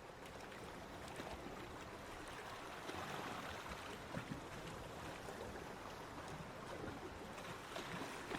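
Small waves washing onto a beach: a steady wash of water with little splashes, swelling slightly about three seconds in.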